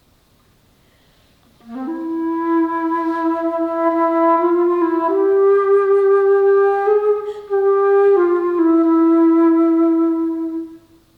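Solo alto flute. After a pause of nearly two seconds it plays a slow phrase of a few long held notes that step up and then back down, and it stops just before the end.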